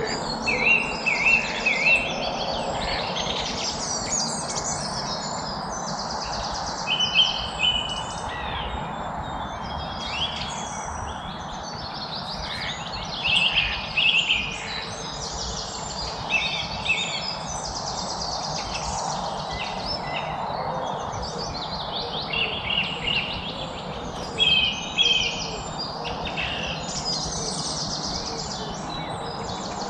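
Several songbirds chirping and trilling, many overlapping short calls over a steady background hiss of outdoor noise. The loudest bursts of chirping come about a second in, around 7 s, around 13–14 s and around 24–25 s.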